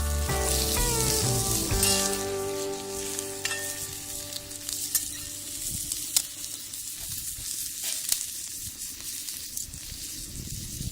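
Background music fades out over the first few seconds. Under it and after it, a steady sizzle with scattered sharp pops comes from cooking on a wood fire in a homemade brick rocket stove.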